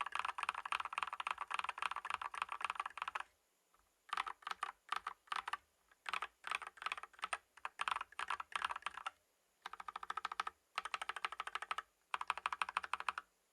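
Typing on a Tom680 65% mechanical keyboard with its stock switches and cherry profile keycaps: runs of rapid keystrokes, each a few seconds long, broken by short pauses, the longest a little over three seconds in.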